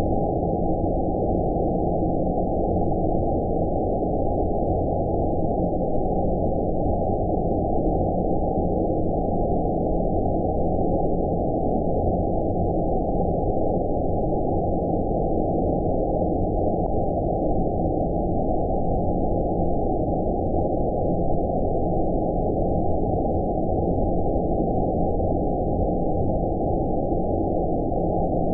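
Steady, muffled deep noise with no high hiss: white noise filtered down to a dull rumble, the 'outer space' sleep-noise sound, unchanging throughout.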